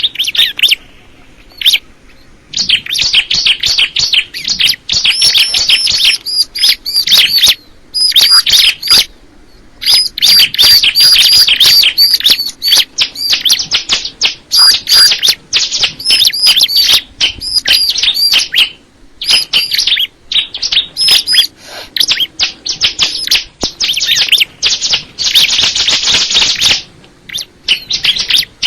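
A ciblek (prinia) singing in long bouts of rapid, high, ringing chirps repeated many times a second, broken by brief pauses.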